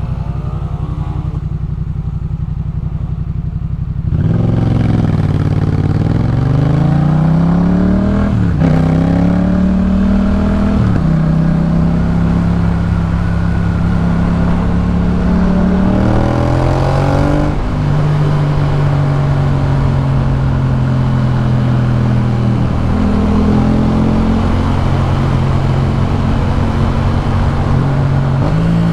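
A 2018 Yamaha MT-07's parallel-twin engine through a Jeskap K4 full exhaust, accelerating hard about four seconds in. The pitch climbs and drops back at each gear change, about four times, with steady stretches at cruising speed in between.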